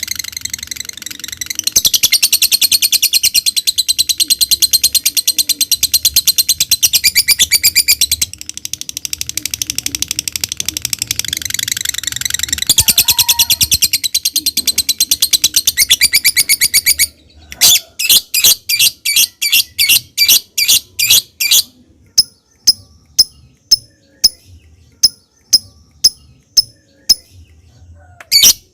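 A lovebird gives its long, rapid, high-pitched chattering trill (ngekek) for about seventeen seconds, with a couple of brief breaks. It then switches to single sharp chirps (ngetik), about three a second at first, then more sparsely, about one a second.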